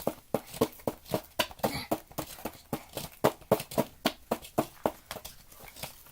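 A digging tool chipping and scraping at a chalky mini dig-kit block, rapid short strokes several a second.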